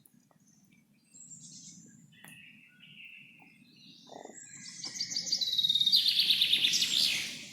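Songbird singing: a few faint high chirps in the first half, then a loud rapid trill of quickly repeated high notes that swells about two-thirds of the way in and stops near the end, over a faint steady low rumble.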